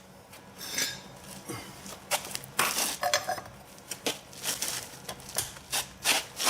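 Irregular metallic clanks and clinks, a dozen or more, some ringing briefly, as tools work on a seized locking lug nut that has a bolt welded onto it to get a grip; the attempt fails to free it.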